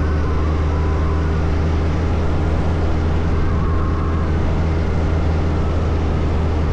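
Suzuki Hayabusa's inline-four engine running at a steady, even pitch under way, mixed with a steady rush of wind noise.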